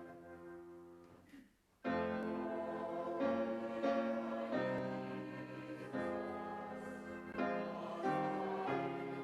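Slow, quiet piano music in held chords. A chord fades away to a brief pause about a second and a half in, then a new phrase begins with chords changing about once a second.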